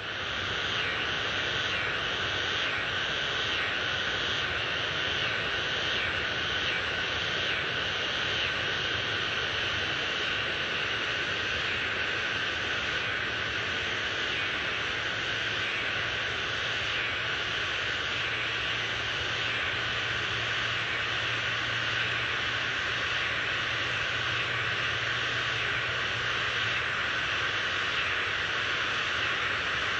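A steady rushing noise, even and unbroken, with a faint low hum in the middle stretch.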